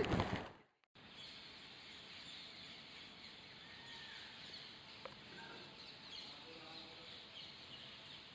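Faint outdoor ambience with scattered soft bird chirps, after a burst of loud crackling that cuts off within the first second.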